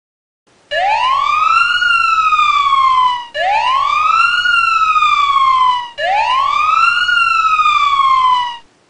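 Police siren wailing three times: each wail sweeps up quickly, then falls away slowly, and the siren cuts off near the end.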